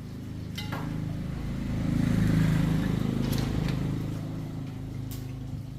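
A motor vehicle's engine running past, growing louder to a peak about two seconds in and then fading, before cutting off abruptly.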